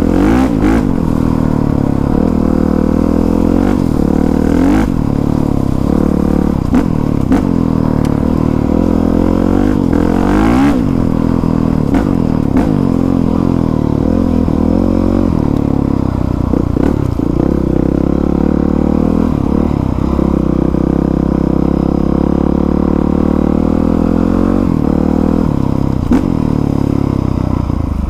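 Dirt bike engine running under load while being ridden on a trail, its pitch rising and falling over and over as the throttle is opened and closed and the rider shifts, with a few short knocks along the way.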